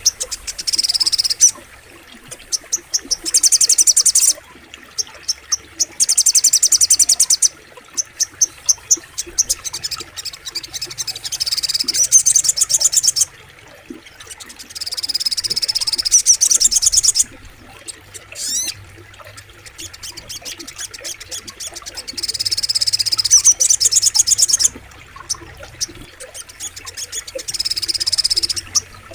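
Crimson sunbird (sogok ontong) singing: high, very fast trills of one to two seconds, repeated every few seconds, with runs of separate sharp chips between them.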